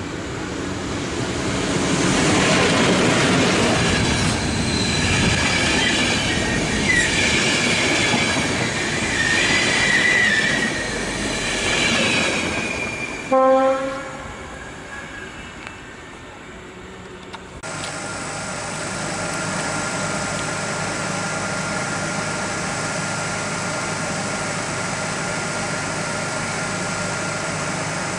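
An electric locomotive and its passenger coaches pass by close, with a loud rumble of wheels on rail and a wavering high wheel squeal that fades away. A short pitched tone sounds at the end of the pass, the loudest moment. Then a stationary electric multiple unit gives a steady hum with a thin high whine.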